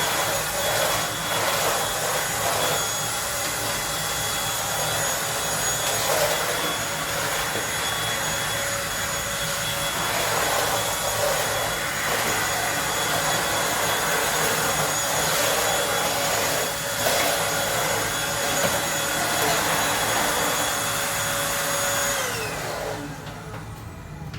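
Eureka Blaze stick vacuum cleaner running steadily, its motor giving a steady high whine over the rush of suction, with a few brief knocks. Near the end it is switched off and the whine falls away as the motor spins down.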